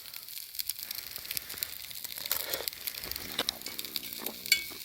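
Food sizzling as it cooks over a wood fire, a steady hiss with frequent sharp pops and crackles.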